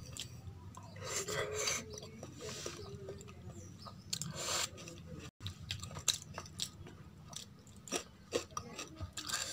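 Close-miked chewing and mouth sounds of someone eating kadhi with rice, mixed with soft wet sounds of fingers working the rice and curry in a steel plate.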